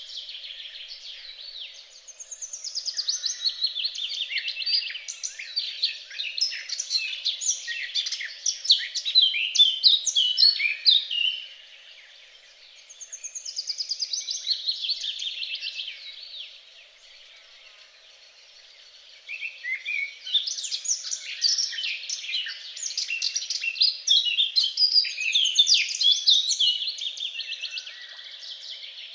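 Songbird singing long, fast phrases of chirps and trills. There is a long phrase in the first half, a shorter trill, then after a pause another long phrase in the second half.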